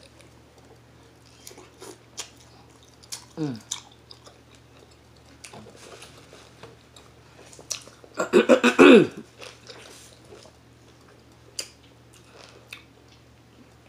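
Close eating sounds: chewing and biting of seafood, with scattered sharp clicks and crunches from the shells. A short falling vocal sound comes about three and a half seconds in, and a louder short burst of voice comes around eight to nine seconds in.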